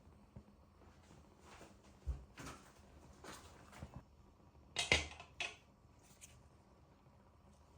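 A handful of short knocks and scrapes of objects being handled, the loudest a little before the five-second mark.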